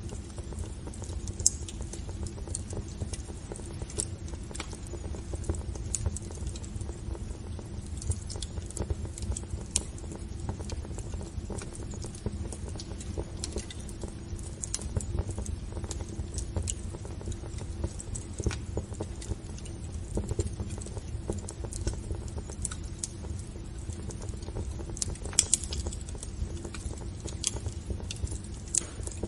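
Wood fire crackling, with irregular sharp pops and snaps over a steady low rumble; two louder pops, about a second in and near the end.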